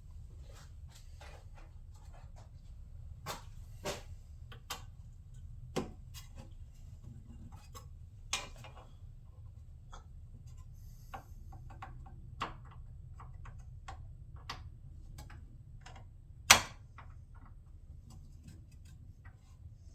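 Scattered clicks and taps of plastic shroud pieces and their fasteners being handled and lined up, with one sharp, much louder click about two-thirds of the way through, over a low steady hum.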